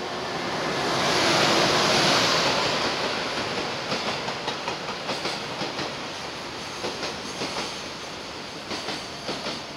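EH500 electric freight locomotive passing through without stopping, its noise swelling to a peak about two seconds in. Container wagons follow, their wheels clicking repeatedly over the rail joints.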